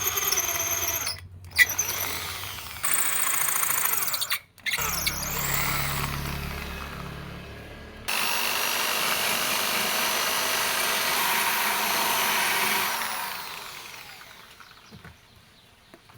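Electric power tools running in several short bursts with a steady whine. Then one longer run of about five seconds winds down and fades out over about two seconds near the end.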